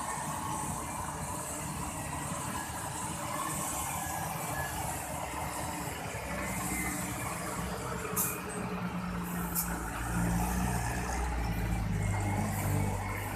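Heavy UD truck's diesel engine labouring slowly downhill, coming in about halfway through and growing louder, with two short air-brake hisses in the middle, over general road traffic noise.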